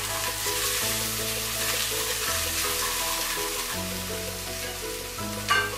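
Ground spices and ginger paste sizzling as they fry in oil, stirred with a wooden spatula, with a sharp knock of the spatula about five and a half seconds in. Background music plays under it.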